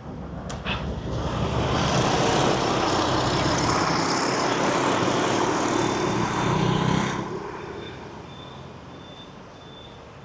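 A motor vehicle passing close by in street traffic: its noise builds over the first two seconds, stays loud for about five seconds, then drops away quickly, leaving quieter traffic.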